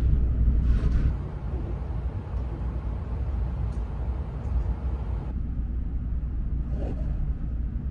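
Shinkansen high-speed train running at speed, heard from inside the passenger cabin as a steady low rumble with a hiss above it. It drops in loudness about a second in, and the hiss thins out suddenly about five seconds in.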